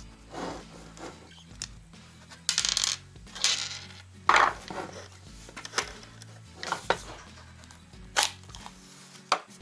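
Hand disassembly of a small angle grinder: clicks, knocks and short rattles of its housing, small metal parts and tools being handled and set down. There are a few half-second rattling scrapes about two to five seconds in, then single sharp clicks.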